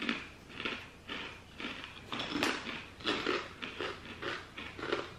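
Someone chewing a hard kettle-cooked potato chip with closed lips: a steady run of crisp crunches, about two a second, with one sharper crack about halfway through.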